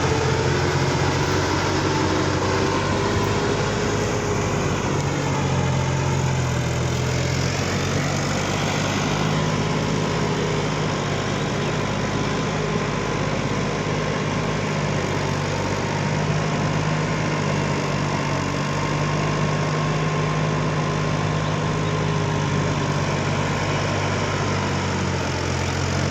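New Holland 6010 4x4 tractor's diesel engine idling, a steady low hum throughout.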